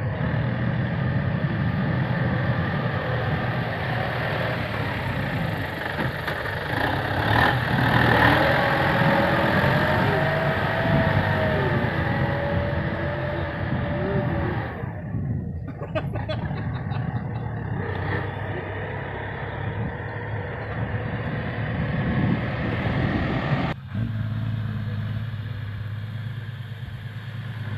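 Dump truck's diesel engine running, with the revs rising and falling, a wavering whine for several seconds near the middle, and an abrupt change to a steadier, lower hum near the end.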